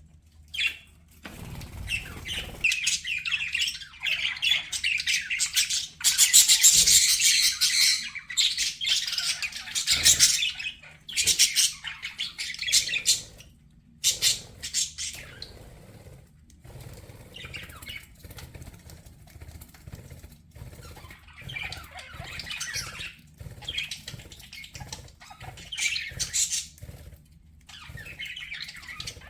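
Budgerigars chattering and chirping, a continuous run of quick, broken calls that is loudest and busiest about six to ten seconds in.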